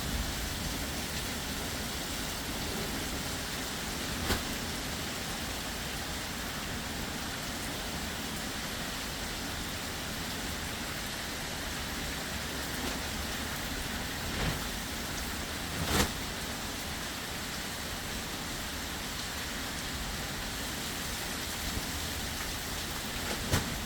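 Heavy rain falling steadily, with a few sharp taps scattered through it, the loudest about sixteen seconds in.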